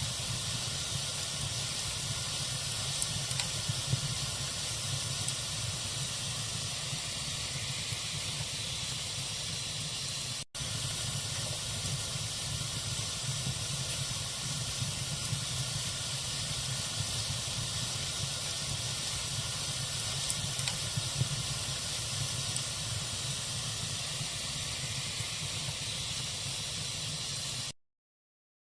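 Log fire burning with a steady hiss and occasional faint crackles. The sound drops out for an instant about ten seconds in, then cuts off suddenly near the end.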